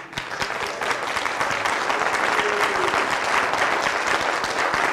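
Church congregation applauding, starting with a few claps and swelling at once into steady applause.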